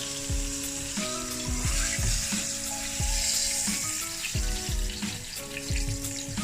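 Oil sizzling steadily in a frying pan as cornflour-coated chicken shallow fries. Background music with a steady beat plays alongside.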